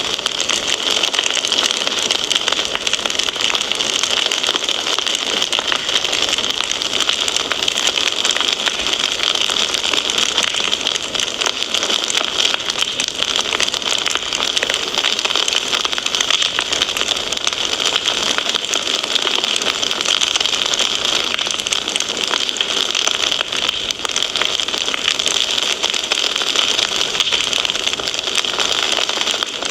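Wood fire crackling in a fireplace: a dense, steady stream of small pops and snaps.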